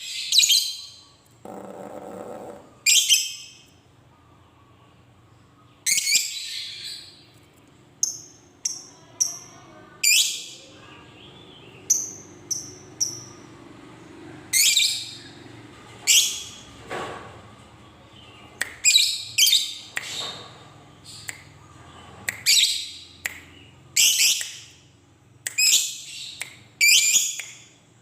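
Lovebird calling: a series of sharp, shrill chirps and screeches, each well under a second, sometimes coming in quick runs, with a few thin whistled notes in between.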